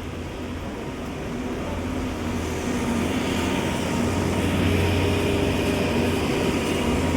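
Road traffic on a wet city avenue: a steady low engine hum under a broad hiss, growing louder from about two seconds in as a vehicle draws near.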